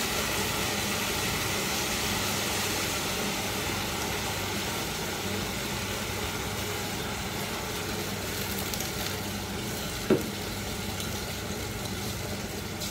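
Beef sizzling steadily in oil in a pot, over a steady low electrical hum. A single sharp knock comes about ten seconds in.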